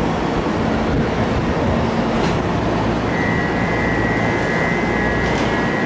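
JR 205-series electric commuter train standing at a platform, its running equipment giving a loud, steady hum. About halfway through, a steady high tone starts and holds.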